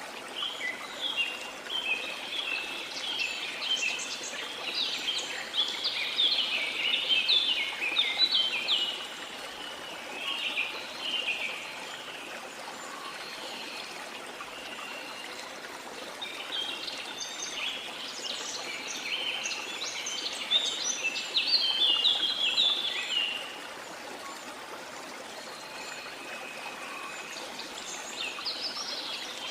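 Steady rush of a waterfall with birds in a tropical rainforest singing over it: rapid chirping song in two long busy bouts, one near the start and one in the second half, and a shorter burst near the end.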